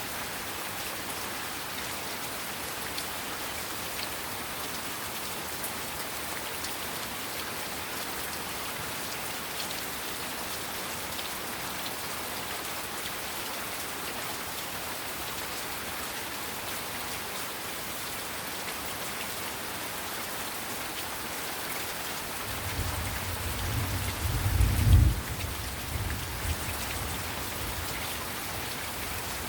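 Heavy rain falling steadily. About three-quarters of the way through, a low rumble of thunder swells, peaks and fades away over a few seconds.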